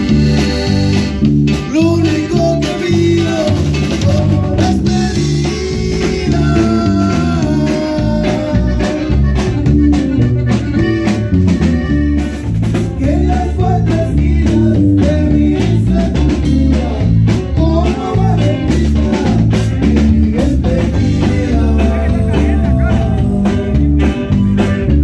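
A norteño band playing a song live, with a stepping bass line, steady drums, guitar and a sung or played melody over it.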